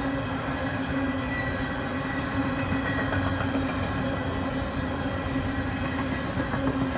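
Freight train rolling steadily past, with the wheels running over the rails in a continuous rumble and a faint steady hum.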